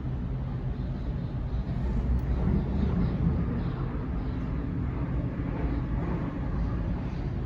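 Sydney Trains Waratah electric train running, heard from inside the carriage: a steady low rumble of wheels and running gear that swells slightly a few seconds in.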